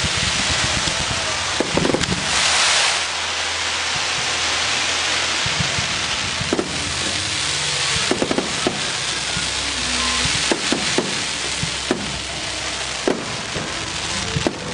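Fireworks going off: a continuous crackling hiss with many scattered sharp bangs, the hiss swelling briefly about two seconds in.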